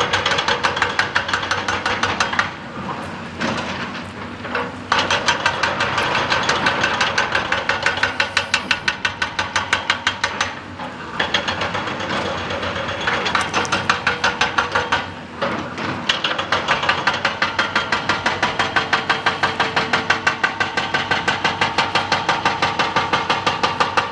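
Excavator-mounted hydraulic rock breaker hammering rock in rapid, evenly spaced blows, over the excavator's engine. The hammering stops briefly three times and starts again.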